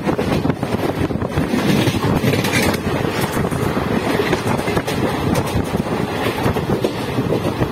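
Passenger train running at speed, heard from inside the coach by its window: a steady rumble of wheels on the rails, with wind buffeting the microphone.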